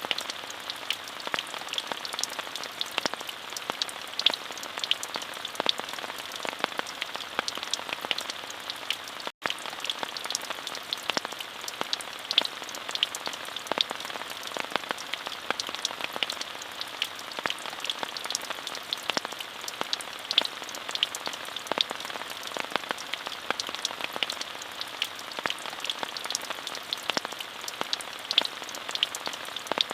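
Steady rain falling, with many individual drops ticking sharply over an even hiss. The sound cuts out for an instant about nine seconds in.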